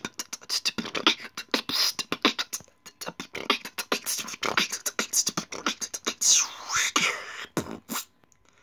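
Human beatboxing: a fast run of vocal kick, snare and hi-hat sounds made with the mouth, with a sweeping pitched vocal effect about six seconds in. It stops shortly before the end.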